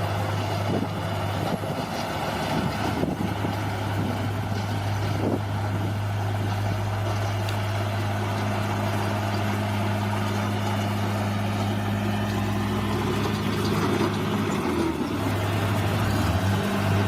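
Bulldozer's diesel engine running steadily under work, with a few sharp knocks in the first few seconds. Its note drops briefly about fourteen seconds in.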